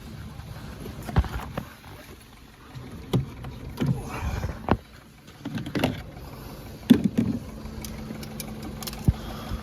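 A car engine idling, the donor car for jump-starting a dead battery. Several sharp knocks and clunks sound over it.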